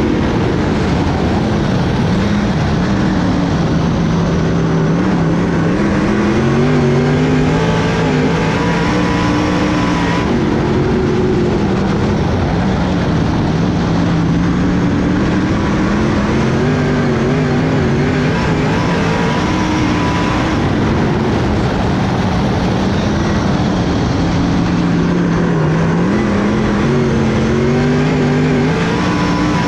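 Race car engine running hard, its revs climbing and dropping in repeated cycles about every five seconds, like laps around a short dirt oval.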